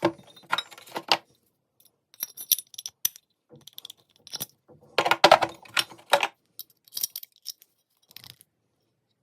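Metal hole saws and their arbor being handled: irregular metallic clinks and clicks, the loudest cluster about five seconds in.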